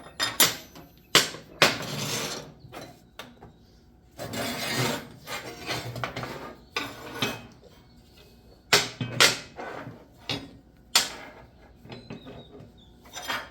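Cut 3/16-inch mild steel plate pieces clanking and clinking as they are handled and fitted together. There are several sharp metal knocks, with two longer stretches of scraping between them.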